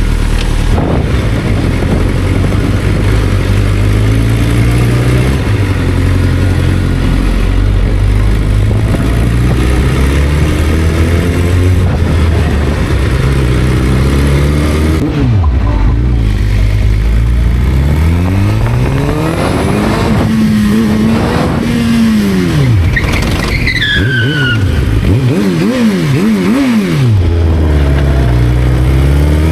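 Motorcycle engine pulling away and riding, its pitch climbing and dropping again and again as it accelerates and shifts gears, with wind and road noise. It slows to a steadier note past the middle, then accelerates hard again.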